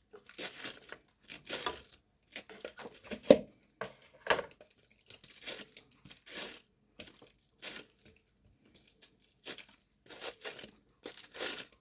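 Raw cabbage being shaved with a hand cheese slicer: a series of short, crisp scraping strokes, irregular and roughly one a second, one louder stroke about three seconds in.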